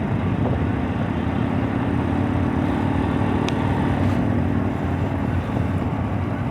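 Racing truck engines running on the circuit: a steady low rumble, with one engine note standing out for a few seconds in the middle.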